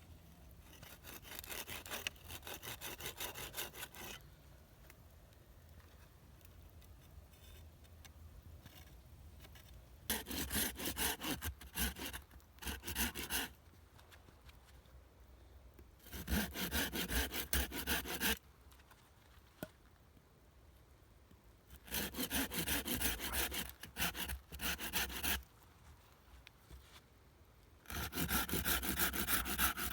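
Hand saw cutting wood with quick back-and-forth strokes, in five bouts of a few seconds each with pauses between; the first bout is fainter.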